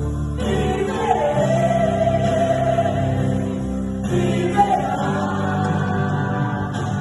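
Choir singing a gospel hymn in long held notes over a steady low accompaniment, with short breaks between phrases.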